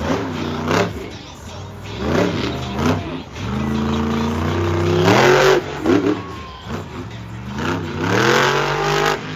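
Monster truck engine revving hard in repeated surges, the pitch climbing and dropping several times, with two longer climbs in the middle and near the end.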